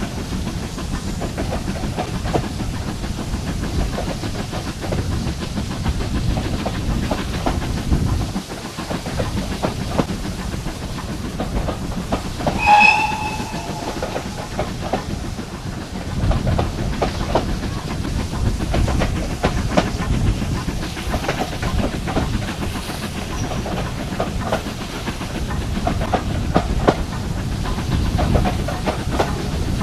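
Heritage passenger train running along the line, wheels clicking steadily over the rail joints. A short high-pitched tone, like a brief whistle, comes about halfway through.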